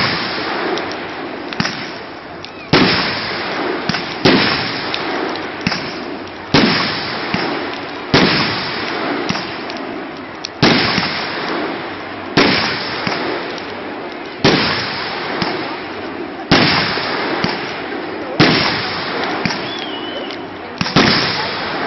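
Fireworks going off in a steady series: a sharp bang roughly every two seconds, each fading away, over a continuous noisy hiss.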